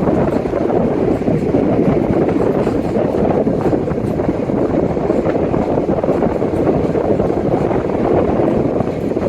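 Express passenger train running along the track, heard from on board: a steady, loud noise of wheels on rails and the moving coach.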